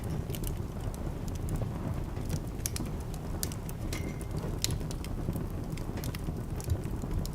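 Wood fire crackling in a fireplace: irregular sharp pops and snaps over a steady low rumble of the burning logs, with one pop about four seconds in trailing a brief high whistle.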